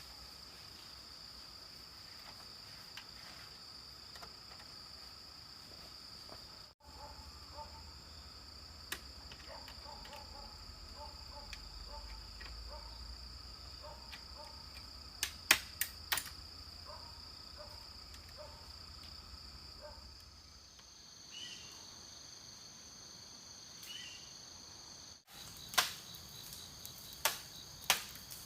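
Insects trilling steadily at a high pitch, broken by sharp knocks or taps: four quick ones about midway and a run of them near the end.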